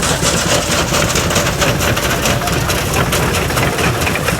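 Heavy machinery running: a steady engine rumble with fast clattering over it.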